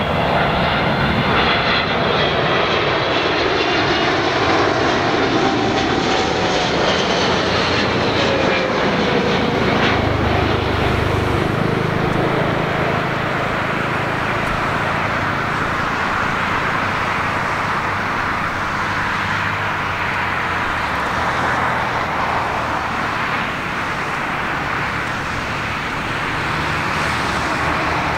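Jet airliner passing low on its landing approach: the engines' whine falls in pitch as the aircraft goes by over the first several seconds, then gives way to a steady jet roar that slowly eases.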